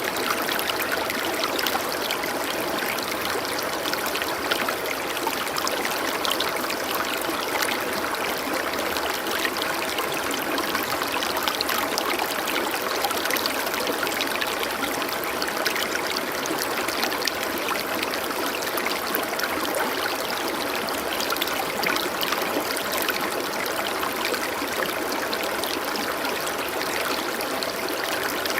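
Running water of a stream: a steady rush with lots of small trickling and splashing sounds.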